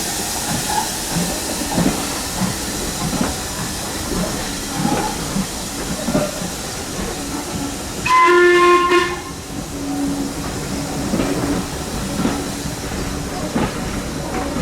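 Steam locomotive at a station hissing steam steadily, with scattered knocks. About eight seconds in, one short whistle blast lasting about a second.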